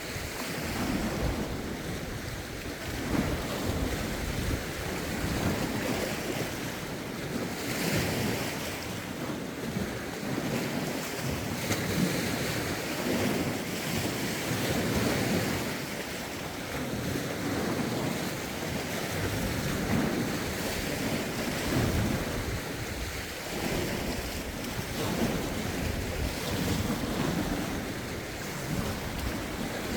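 Lake waves washing in, rising and falling in irregular swells, with wind gusting on the microphone.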